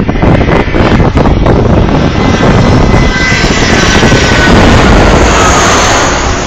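Airliner on final approach passing low overhead, its engines a loud rushing rumble with a whine that slowly falls in pitch as it goes by, about halfway through.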